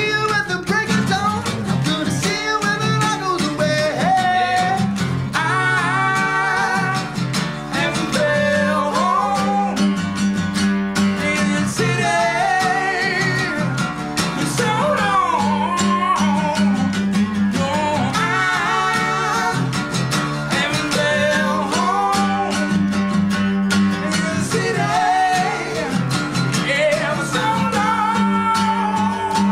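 Live acoustic rock song: a singer's melodic vocal line over a strummed acoustic guitar.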